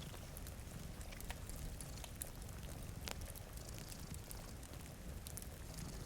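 Mixed ambience of a cat purring in a low steady rumble, a fire crackling with scattered sharp pops, and soft rain.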